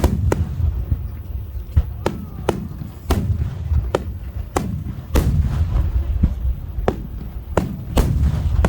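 Aerial firework shells bursting in quick succession, about a dozen sharp booms spaced roughly half a second to a second apart, over a continuous low rumble of echoing detonations.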